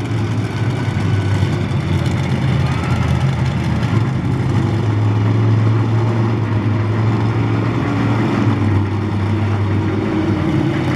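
Monster truck engine running hard at high revs, a loud, steady low drone that rises a little in the middle.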